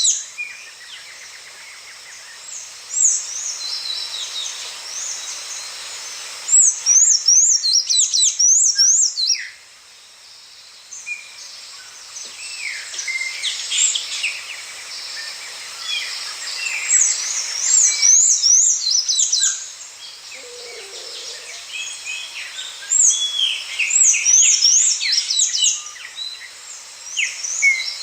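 Songbirds singing together, with overlapping chirps and calls. One bird repeats a fast run of high, rising-and-falling notes every few seconds.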